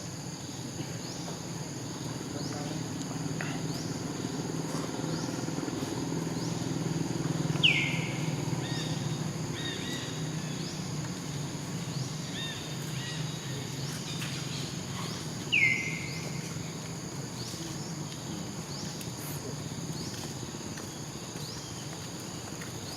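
Outdoor animal ambience: insects trill steadily with a faint chirp repeating about once a second over a low rumble. Two short, high calls sweep sharply down in pitch, about eight seconds apart, and stand out as the loudest sounds.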